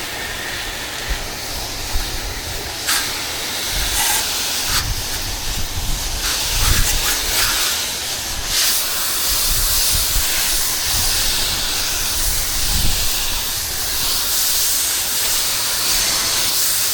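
Pressure-washer wand spraying water and surfactant cleaning solution onto the surfaces: a steady hiss of spray, with an uneven low rumble underneath.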